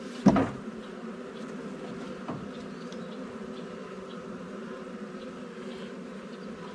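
Honeybee swarm buzzing steadily around an open hive, with a loud knock about a quarter second in and a lighter one about two seconds in.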